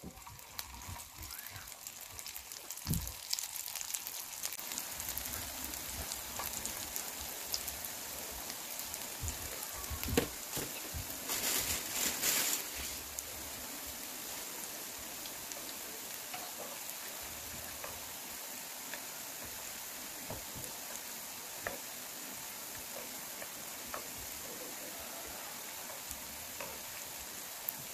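Potato batter rings deep-frying in hot oil: a steady sizzle with fine crackling, swelling louder for a couple of seconds near the middle.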